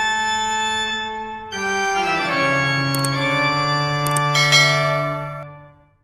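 Intro music of sustained organ-like keyboard chords, moving to a new chord about one and a half seconds in, with a few brief high tinkles, then fading out near the end.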